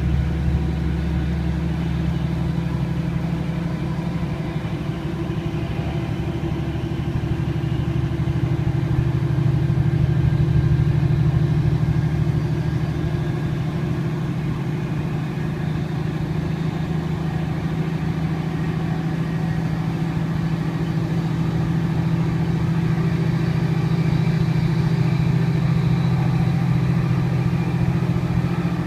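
Class 156 diesel multiple unit's underfloor Cummins diesel engine working hard under power, a loud steady drone heard from inside the carriage, swelling slightly about ten seconds in and again near the end.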